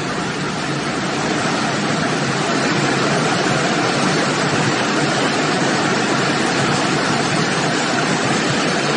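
Floodwater rushing in a loud, steady, unbroken roar of noise.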